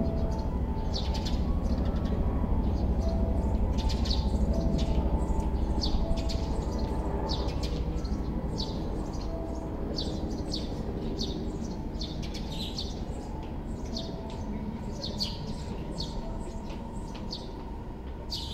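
Small birds chirping in short, repeated high calls, one or two a second, over a steady low rumble of city ambience, the whole slowly fading.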